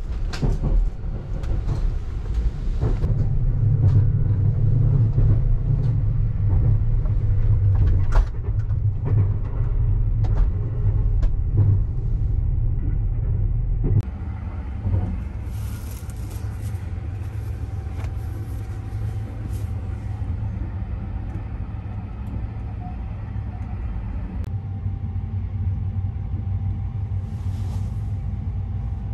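Low, steady rumble of a moving sleeper train heard from inside a compartment, with scattered clicks and knocks. The rumble is heavier in the first half and drops to a lower level about halfway through.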